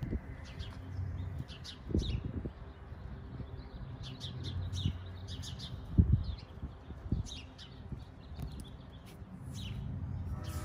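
Small birds chirping repeatedly, with a few dull thumps underneath, the loudest about six seconds in.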